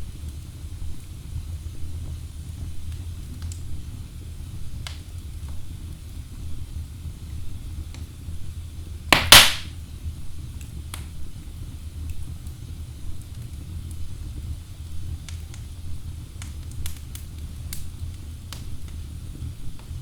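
Wood fire burning in a fireplace: a steady low rumble of flame with scattered sharp crackles from the logs, and one much louder burst of crackling about nine seconds in.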